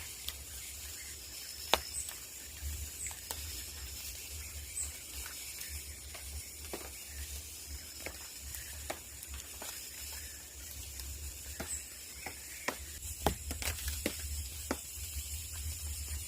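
Scattered raindrops ticking irregularly, a few a second, over a faint steady hiss of light rain and a low rumble.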